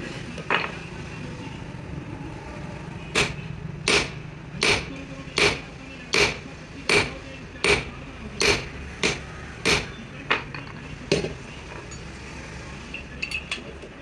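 Hammer blows on metal: one strike, then a steady run of about a dozen ringing blows at roughly three every two seconds, followed by a few light clicks.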